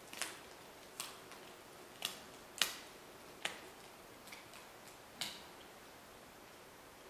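Wolves crunching through their prey as they eat: about six sharp, separate cracks at irregular intervals.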